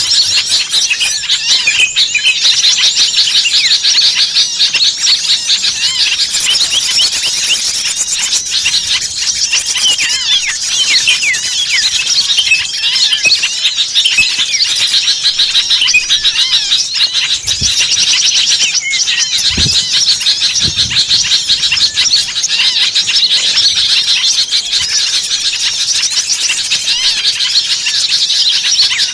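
Dense, loud chorus of many small songbirds chirping and calling rapidly over one another without pause: a mixed lure recording of agitated small birds, played to draw other small birds in. A few short low thuds sound near the middle.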